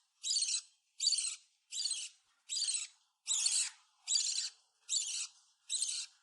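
A hand-fed parrot chick giving short, high squawking calls over and over, about eight in steady rhythm, a little more than one a second.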